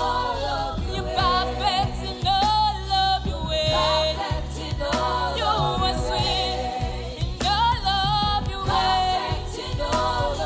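Live gospel worship music: singers holding long, wavering notes over a band with a steady bass.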